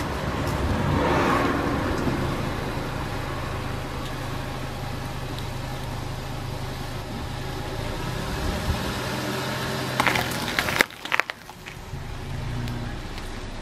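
Car engine running steadily, with a few sharp clicks about ten to eleven seconds in, after which the engine sound drops lower.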